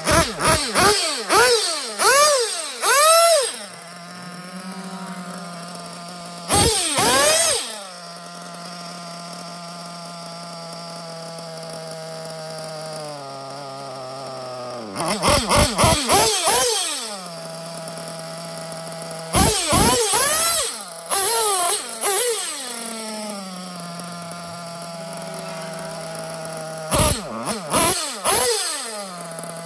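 Nova X5B nitro engine in a Kyosho MP10 buggy on its first start. It idles with a steady buzz and is blipped to high revs in short bursts about five times, each rev rising and falling back to idle.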